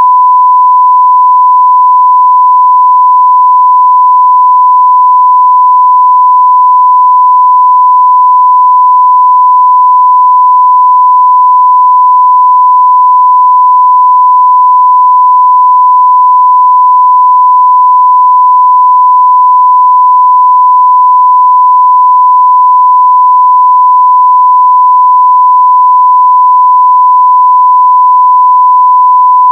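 A steady 1 kHz sine-wave test tone at a constant, loud level, unbroken and without any other sound.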